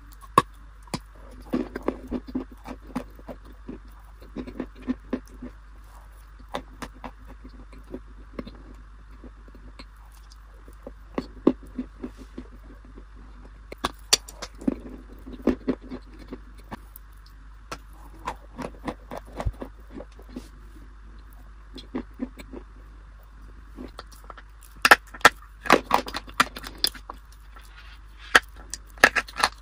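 Close-miked crunchy bites and chewing of a crisp baked snack smeared with cream: sharp crackling crunches between softer wet mouth sounds. The crunching is densest and loudest about 25 seconds in and again near the end.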